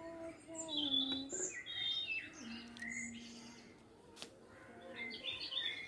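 Small birds chirping, with short high calls scattered throughout, over a faint low steady tone that steps down in pitch a few times.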